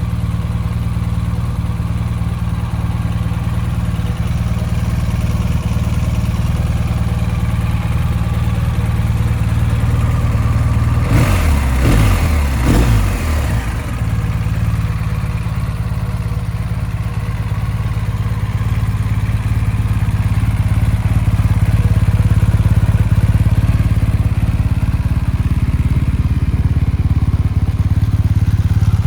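BMW R 1250 GS's boxer-twin engine idling steadily, with three quick throttle blips in the middle where the revs rise and fall.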